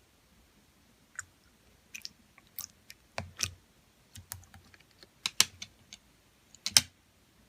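Clear slime being squeezed and pressed by hand, giving irregular wet clicks and pops, the loudest near the end.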